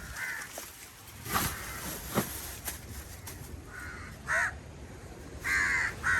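Crows cawing several times in short, harsh calls, with a few sharp knocks between them.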